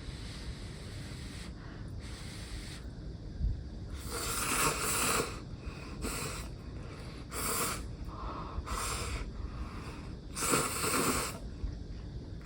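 Close-miked eating sounds from a person chewing and swallowing, coming as about five short, noisy bursts of half a second to a second each, from about four seconds in.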